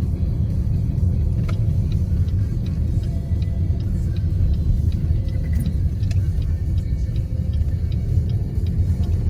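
Steady low road rumble inside a moving car's cabin. From about a third of the way in, faint light ticks come about twice a second.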